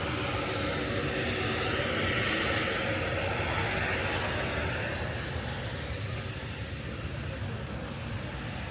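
Jet airliner passing over, its engine noise swelling to a peak about two seconds in and fading away after about five seconds, with a low rumble underneath.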